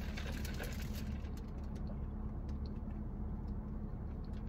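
Car engine idling steadily, a low even hum heard from inside the cabin, with a few faint ticks over it.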